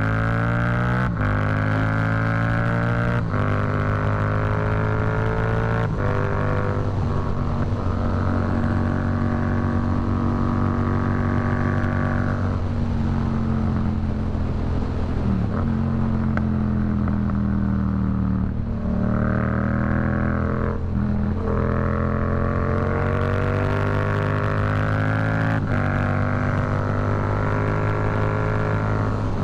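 Yamaha MT-07's CP2 parallel-twin engine through an aftermarket Black Widow exhaust, ridden hard. It accelerates through a few quick upshifts, the pitch climbing and dropping at each shift. Midway it eases off with the pitch falling for several seconds, then pulls up through the gears again, with one more shift near the end.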